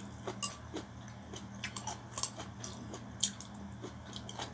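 A person chewing a mouthful of pancit bihon rice noodles close to the microphone: scattered short, wet mouth clicks and smacks.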